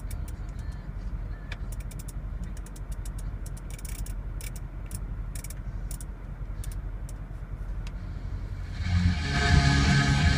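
Steady low rumble in a car cabin, with a run of small sharp clicks from the infotainment controller knob being turned and pressed. About nine seconds in, the car's sound system starts playing loud rock music with electric guitar.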